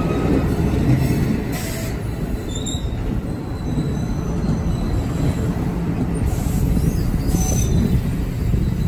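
NJ Transit double-deck passenger coaches rolling past close by: a steady heavy rumble of steel wheels on the rails, with a few brief faint high squeals from the wheels.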